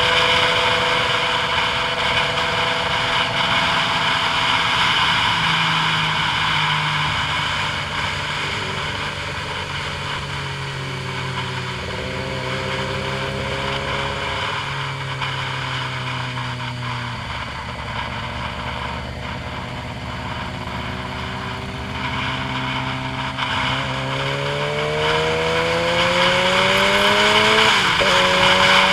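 A vehicle's engine running at a low, changing pitch under a steady hiss; about two-thirds of the way through its pitch climbs steadily, then drops sharply near the end, as at a gear change.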